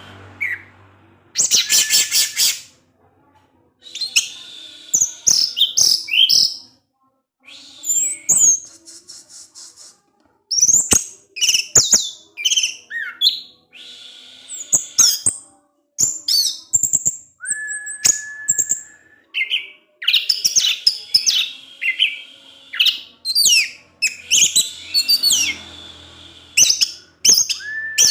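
Orange-headed thrush singing a loud, varied song of quick chirps, twitters and sweeping whistled notes in phrases broken by short pauses, with a steady held whistle about 17 seconds in.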